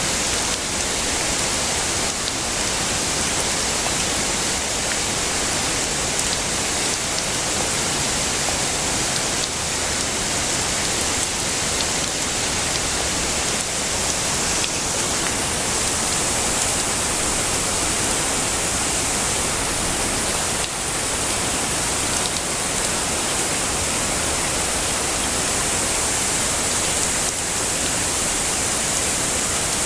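Heavy rain falling steadily, an even rushing hiss with no breaks and no thunder.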